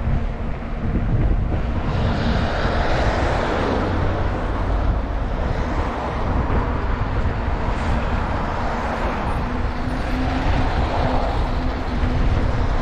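Wind buffeting the microphone while cycling, with a steady low rumble. Over it comes the rushing of traffic, swelling about two seconds in and again near the end.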